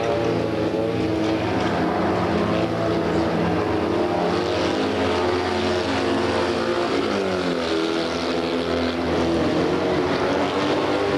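Several Fiat 126p race cars' two-cylinder air-cooled engines running hard together. Their pitch slides up and down as they rev, most clearly a little past the middle.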